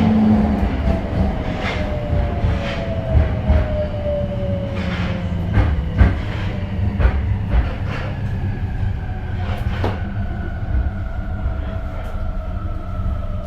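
Tokyo Metro 02 series subway train running, with a steady low rumble and irregular sharp clicks of the wheels over rail joints. A faint motor whine slowly falls in pitch as the train slows.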